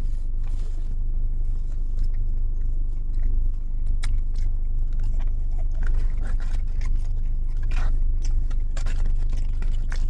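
A car engine idling, a steady low rumble heard from inside the cabin, with scattered crunches and clicks from someone chewing crumbed fried chicken strips.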